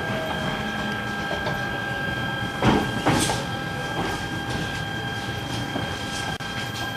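An E129-series electric train rolling slowly into a station, heard from inside the car: a steady inverter and motor whine over running noise, with two sharp wheel clacks over rail joints or points about three seconds in.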